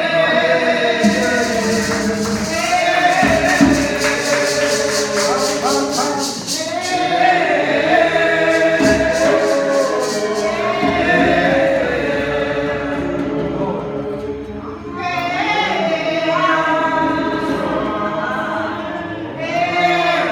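A congregation singing a gospel chorus together, with a tambourine shaken in a quick steady rhythm through the first half.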